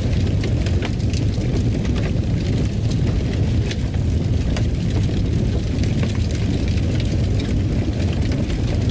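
Wood fire crackling: a steady low rumble of flames with frequent small sharp pops and snaps scattered throughout.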